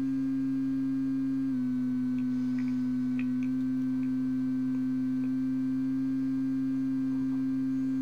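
A steady droning bleep made by looping a tiny slice of a recorded voice sample in the Koala sampler app so short that it becomes a pitched note, sitting around middle C. Its pitch drops a little in a small step about one and a half seconds in and shifts slightly again later as the pitch knob tunes it toward C.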